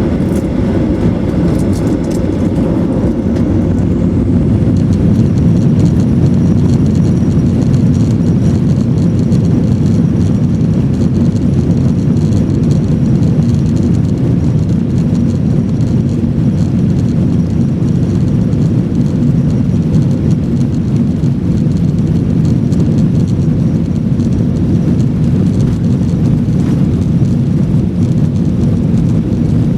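Steady, loud jet engine noise heard inside the cabin of a Boeing 737-900ER, a low-pitched rumble with a light rattle and a few faint clicks in the first seconds.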